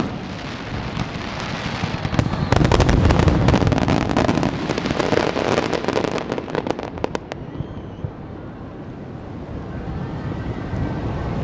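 Aerial fireworks bursting in a dense barrage of sharp reports and crackling, which dies away about seven seconds in, leaving a lower steady rumbling noise.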